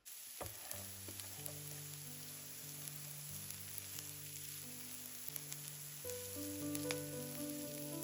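Food sizzling in a hot frying pan, with scattered small pops, over soft background music.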